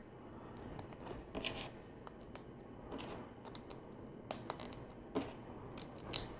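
Small LEGO plastic pieces clicking and clattering irregularly as they are handled and snapped together, with a few sharper clicks in the second half.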